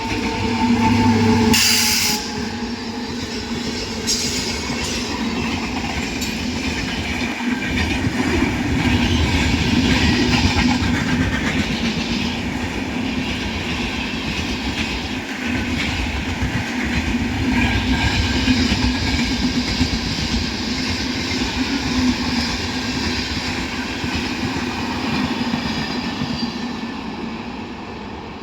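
Dakshin Express passenger train passing: a long, steady rumble and clatter of coaches running over the rails. A horn-like steady tone sounds at the start, and the train fades away near the end.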